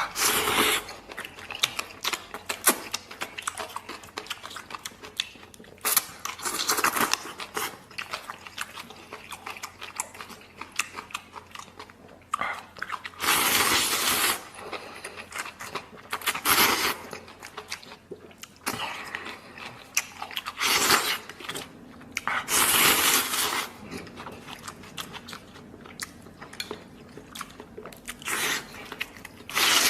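A person eating noodles and braised pork trotter close to the microphone: steady wet chewing and smacking, with about seven loud slurps of noodles, each lasting about a second.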